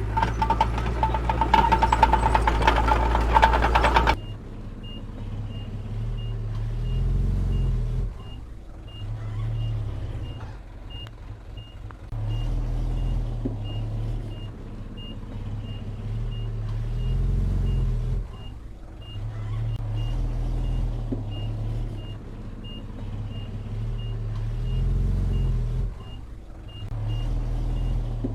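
A loud heavy engine runs for the first few seconds and then cuts off suddenly. After that a diesel engine of heavy earthmoving equipment rises and falls in load every few seconds, under a steady reversing alarm beeping about one and a half times a second.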